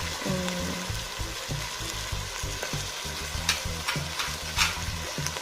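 Chicken pieces frying in hot oil with soy sauce, a steady sizzle. A few sharp clicks of a utensil against the pan come between about three and a half and five seconds in, as the chicken is stirred.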